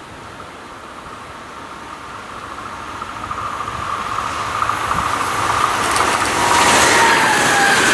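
A train approaching on the line, its rumble and rail noise growing steadily louder, with a high whine that drops in pitch near the end as it draws level.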